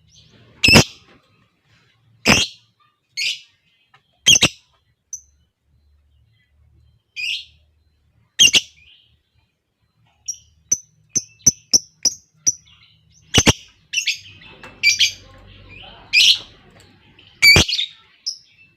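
Lovebirds calling: sharp, shrill single calls every second or two, with a run of quick high chirps a little past halfway and busier calling near the end.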